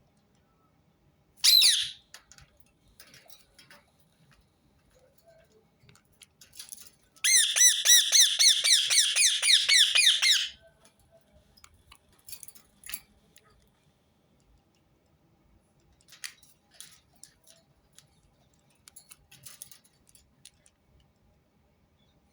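Rose-ringed parakeet calling: one harsh screech about a second and a half in, then a fast run of shrill repeated notes, about four a second, lasting some three seconds. Softer scattered chirps and clicks follow.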